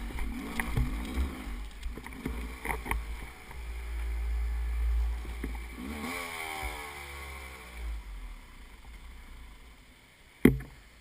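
Motorcycle engine running on a trail, its pitch rising and falling with the throttle, then easing off and fading in the last few seconds. A single sharp knock comes near the end.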